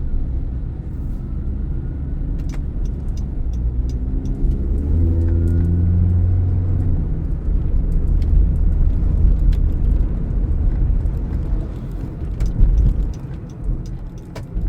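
Car engine and road rumble heard from inside the car as it pulls away and drives on; the engine note climbs about four seconds in as it accelerates, then settles into a steady low drone.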